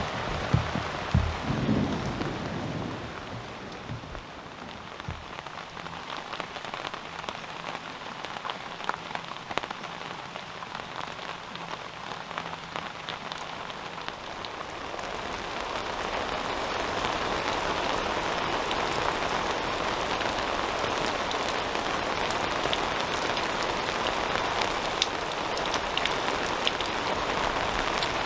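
Steady rain falling on a surface, with a dense patter of drops, getting heavier about halfway through. A few dull knocks sound in the first few seconds.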